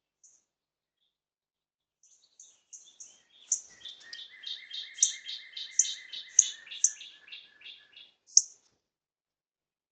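Small birds chirping: a few short high chirps, then a fast run of notes, about four a second, that stops about eight seconds in, followed by one last sharp chirp.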